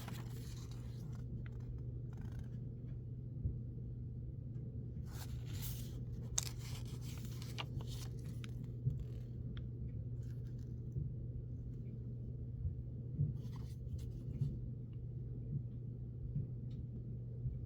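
Thin paper pages of a Blu-ray booklet being turned, with short rustles every few seconds over a steady low hum.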